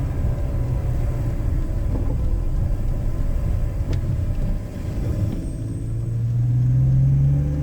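BMW E46 inline-six with a K&N cold-air intake, running hard under acceleration with a deep intake rumble. About five seconds in, the sound dips briefly, then the revs climb steadily.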